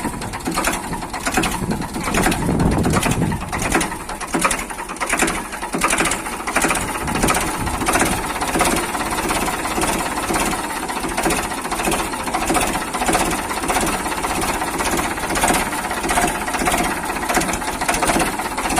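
Mini tractor's motor running steadily under the load of a full trolley, with a fast, even mechanical rattle.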